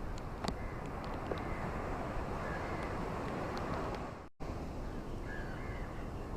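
Steady wash of ocean surf, with a few faint, short bird calls above it. The sound cuts out for an instant about two-thirds of the way through, then resumes unchanged.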